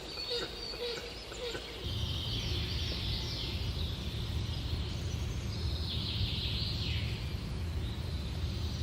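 Small birds chirping and singing, with several quick falling notes, over outdoor ambience; a steady low rumble comes in about two seconds in.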